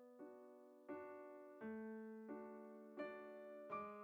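Soft background piano music, a slow run of chords struck about every three-quarters of a second and left to ring and fade.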